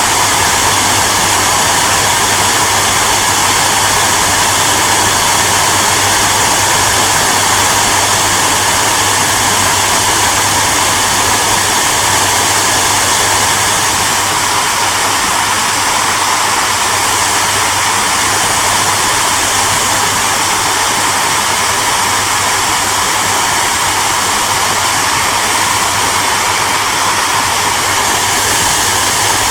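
Hair dryer running continuously: a steady rush of air over the low hum of its motor.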